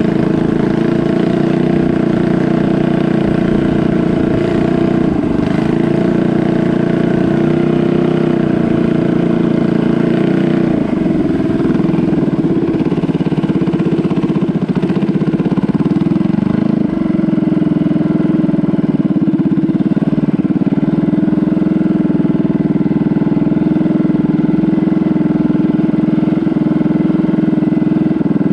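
A canal boat's engine running steadily and loudly, its pitch dipping and shifting slightly a few times.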